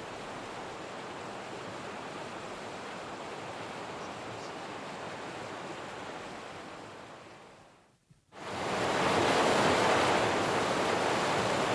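A steady rushing noise fades out to a brief silence about eight seconds in. Then the louder, even rush of the Motueka River's flowing water starts.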